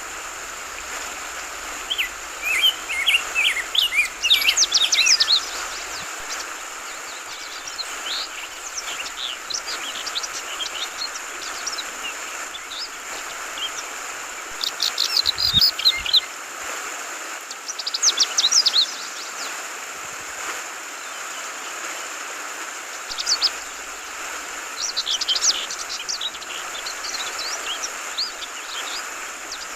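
Yellow-vented bulbuls (trucukan) calling in short bunches of quick, high chirps, several times, over the steady hiss of flowing water.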